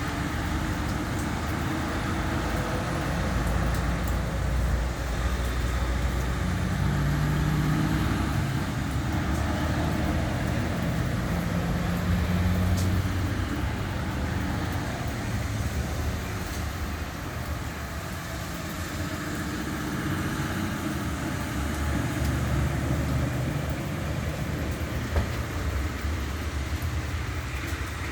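Road traffic on a wet road: vehicle engines and tyre noise swell and fade as vehicles pass, with low engine rumbles coming and going every few seconds.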